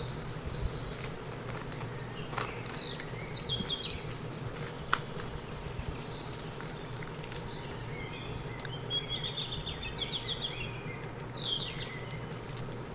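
Birds chirping in the background, a few quick high downward-sliding calls and a short trill, over a steady low hum. A few sharp crinkles of plastic candy wrappers come from the pile being handled.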